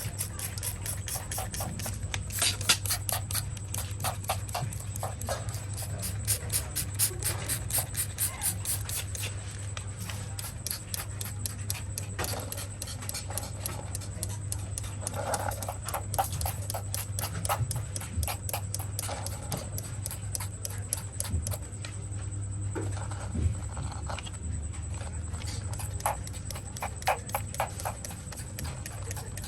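Quick scratchy strokes, about five a second, of a small brush scrubbing dust off a 1:24 scale diecast model, thinning out after about nine seconds, over a steady low hum.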